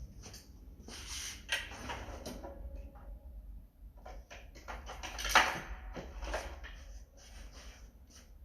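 Irregular knocks, clicks and scrapes, with one sharper knock about five seconds in.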